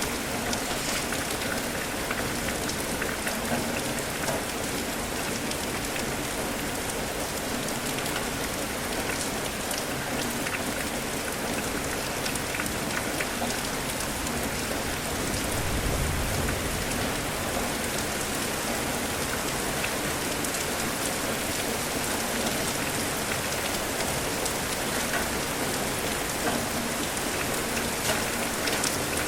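Steady rain falling, a constant hiss with fine scattered drop ticks, and a brief low rumble about halfway through.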